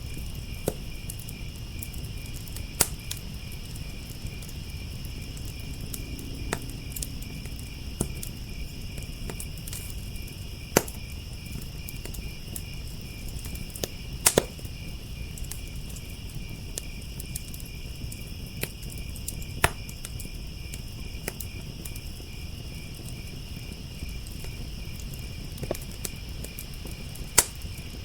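Wood fire crackling, with sharp pops coming irregularly a second or few apart. Under it runs a steady, high chorus of crickets chirping in a fast trill.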